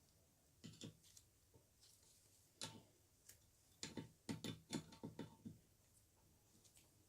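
Light clicks and knocks of small metal drill-press parts being handled and taken apart: a couple about a second in, a single one near the middle, and a quick run of them a little past halfway.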